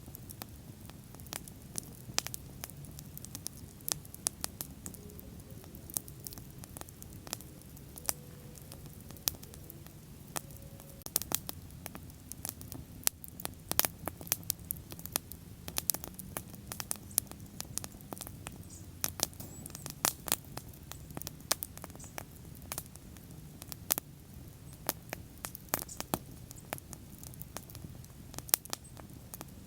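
Bonfire burning, with frequent irregular sharp crackles and pops over a low, steady rumble of the flames.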